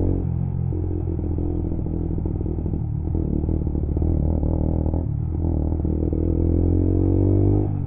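Lexmoto Assault 125cc single-cylinder motorcycle engine running under way. Its note dips briefly twice, about three and five seconds in, then climbs and drops away just before the end.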